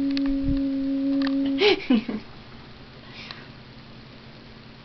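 A person humming one long, steady "mmm" note that breaks off about a second and a half in with a short falling vocal sound, then quiet room noise.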